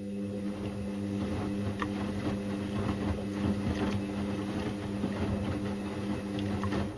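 Indesit IWC6165 washing machine turning its drum in a wash tumble: a steady motor hum with the wet load tumbling and clicking, stopping abruptly near the end.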